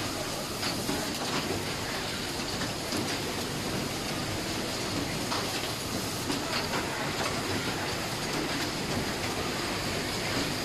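Automatic towel transverse hemming sewing machine running: a steady mechanical noise with irregular sharp clicks.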